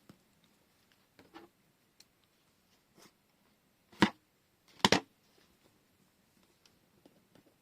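Tabletop handling of washi tape rolls: light rustling and small ticks, then two sharp knocks a little under a second apart, about four and five seconds in, as rolls are picked up and set down.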